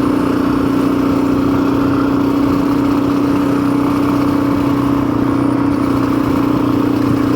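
Custom-built motorcycle's engine running at a steady speed while being ridden: a constant drone that holds one pitch throughout.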